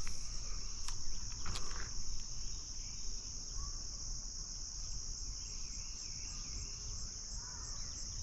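Steady high-pitched chorus of insects, with a few faint chirps in the middle and light clicks near the start.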